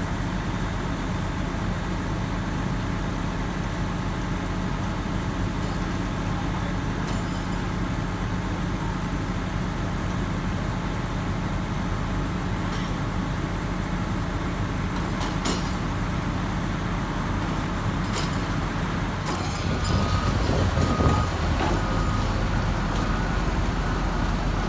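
Heavy diesel machinery of the kind used for railroad track work (excavators and loaders) running steadily, with a few sharp knocks and a louder, rougher stretch near the end.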